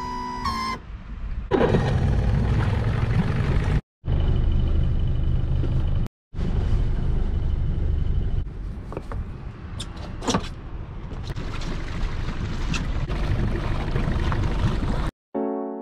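Loud low rumble with heavy wind-like noise across the range, in several short clips joined by abrupt cuts. Held music notes in the first second and piano music at the end.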